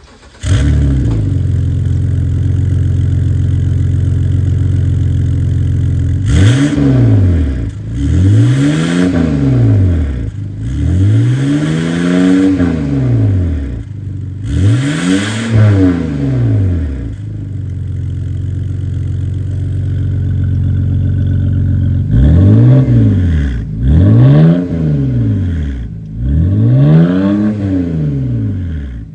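BMW E60 528i straight-six exhaust through a custom valved exhaust, idling and then blipped repeatedly: a run of sharp revs rising and falling, a stretch back at idle, then another run of revs near the end.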